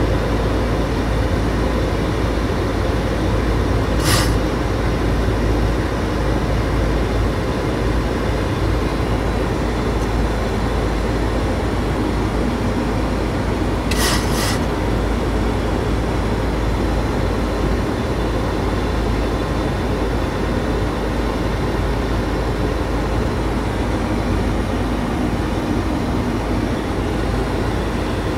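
Steady cockpit noise of a Boeing 737-600 on approach, with air rushing past the flight deck over the engines' low rumble. A brief click sounds about four seconds in, and a quick double click comes around fourteen seconds.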